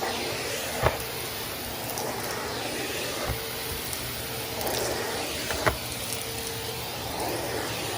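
Henry vacuum cleaner running steadily, with a few sharp clicks as crunchy debris is sucked up the hose.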